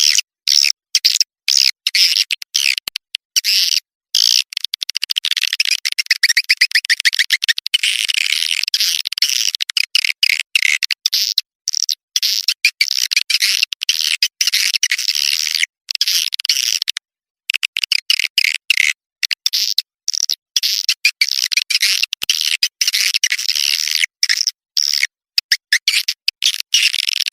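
Swiftlet call recording used to lure swiftlets into a nest house: dense, high-pitched chirping and twittering calls in stuttering bursts, broken again and again by brief gaps, with nothing low in the sound.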